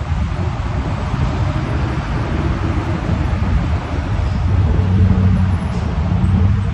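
Steady low rumble of road traffic, with a deeper engine hum growing stronger a little past halfway through.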